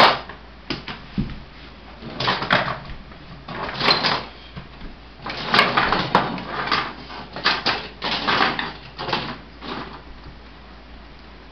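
Toy monster trucks being handled, set down and knocked about: a run of irregular clattering, knocking and scraping.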